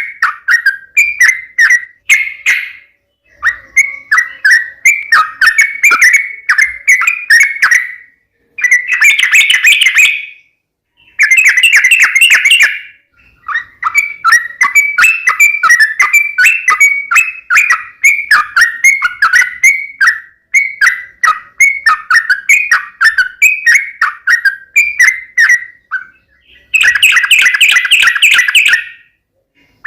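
Yellow-vented bulbul (trucukan) singing, with loud runs of quick bubbly chirps broken by short pauses and a few denser, fuller bursts of song, about 10 s, 12 s and near the end. This is the combative 'tarung' song used as a lure recording to make a caged bird answer.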